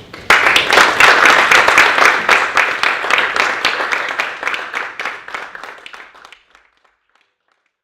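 Audience applause. It breaks out all at once just after the start, stays strong for a few seconds, then thins to scattered claps and dies away about six seconds in.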